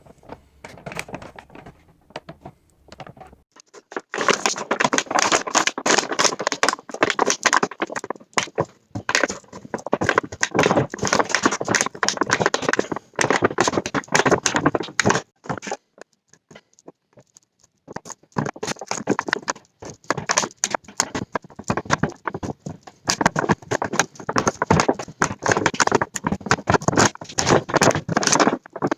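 Packaging being handled and torn open: dense crackling and rustling in long bursts, quieter for the first few seconds and breaking off briefly about two-thirds of the way through.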